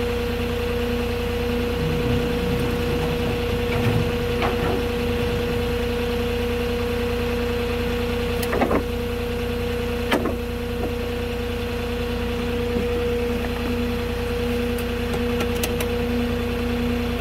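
Forklift engine idling steadily with a constant hum, with a couple of brief clicks around the middle.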